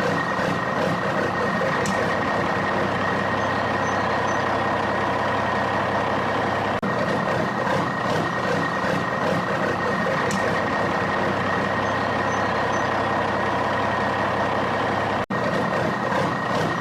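A truck engine running steadily with a constant high whine over it, broken by two brief dropouts.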